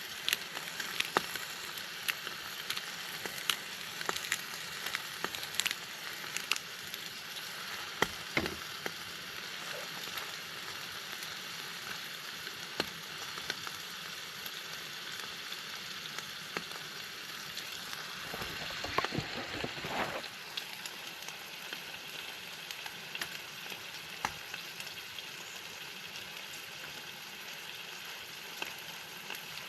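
New York strip steak frying in a pan on a small camp stove: a steady sizzle with frequent sharp spitting pops. It grows louder for about two seconds roughly two-thirds of the way through.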